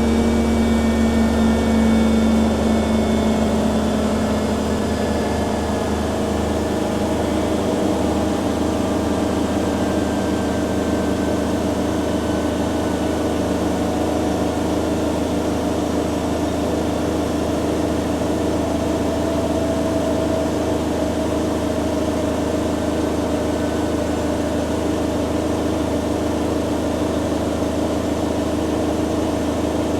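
Two front-loading washing machines, a Hoover Dynamic Next DXA610IW3 and a Beko Pro AquaTech WX94044EO, running their spin cycles side by side: a steady motor whine and drum hum. One strong tone fades in the first few seconds, then the sound holds steady.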